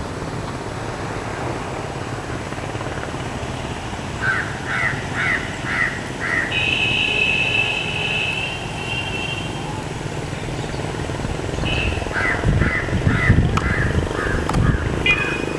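A bird calling in two runs of about five short, harsh calls each, around three a second, over a steady outdoor background hum. A long, steady high-pitched note sounds in the middle, and a low rumble rises near the end.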